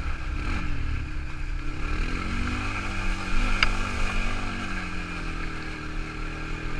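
Quad bike engine running, its pitch dropping about half a second in and climbing again around two seconds, then holding steady. A single short tick sounds a little past halfway.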